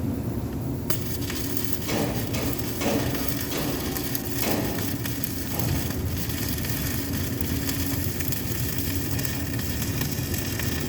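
Electric arc welding: the arc strikes suddenly about a second in and is held for one continuous bead, a dense steady crackle, over a low hum.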